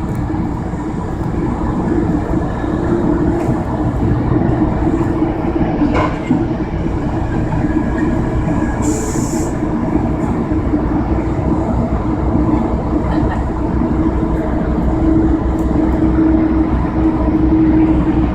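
Amtrak passenger train running at speed, heard from inside the passenger car: a steady rumble of wheels on rail with a constant low hum, and a short hiss about halfway through.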